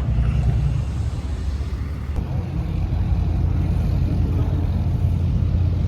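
Truck engine running with a steady low rumble, which changes in tone about two seconds in.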